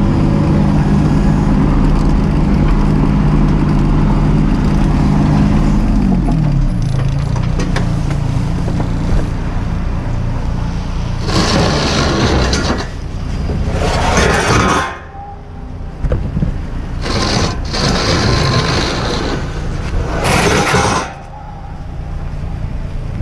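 Mini excavator's diesel engine running steadily, its revs dropping about six seconds in. In the second half come several loud bursts of rushing noise.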